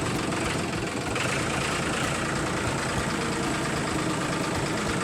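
Mini tractor's small engine idling steadily, with a fast, even chugging.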